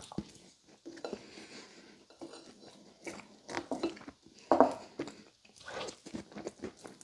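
Close-miked chewing of a mouthful of pumpkin pie with whipped topping: a string of short, irregular chewing and mouth sounds.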